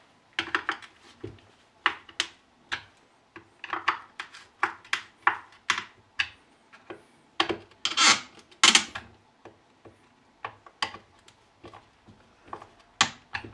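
Hand tools and small metal parts being handled during repair: irregular clicks, knocks and short scrapes, with two louder rasping scrapes about eight seconds in.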